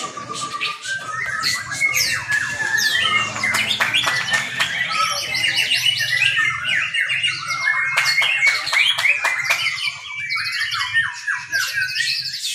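Several caged songbirds singing loudly and without a break, a dense tangle of rapid whistles, trills and sharp clicking notes, the birds driven into full song by the competition.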